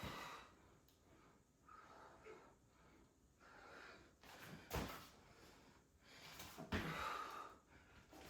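A person breathing hard in short, forceful puffs while doing burpees. Two louder bursts come about five and seven seconds in.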